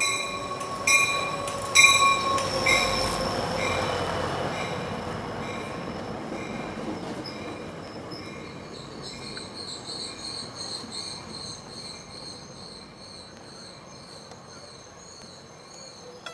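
Subway train wheels squealing in a high, pulsing whine on the rails, with a few clanks in the first couple of seconds. The sound gradually fades as the train moves off.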